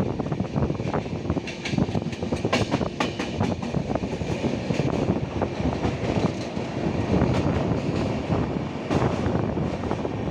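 Train running along the track: a steady rumble of wheels on rail with sharp clicks over the joints, thickest a couple of seconds in and again near the end.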